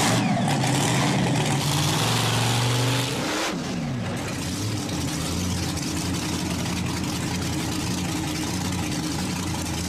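Monster truck's big engine revving loudly, then easing off about three seconds in to a steady rumbling idle.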